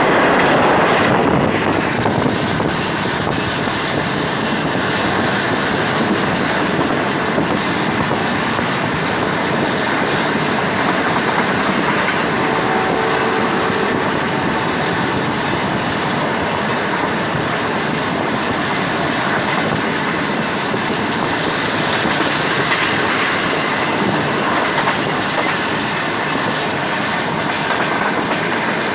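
Margalla Express passenger train running at speed, heard from aboard: a steady rushing rumble of the wheels on the rails.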